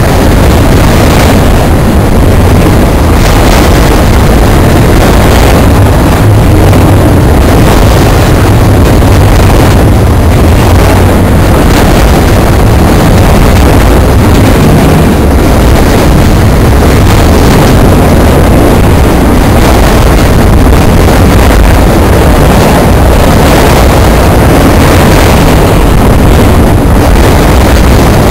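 Loud, steady rumble and clatter of a freight train of autorack cars rolling past close by, wheels running on the rails.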